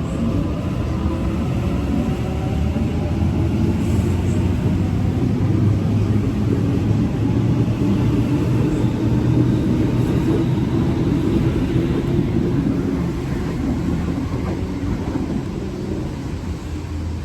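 Electric suburban train passing through the station: a steady low rumble with a motor whine that slides in pitch over the first few seconds. It grows louder towards the middle and eases near the end.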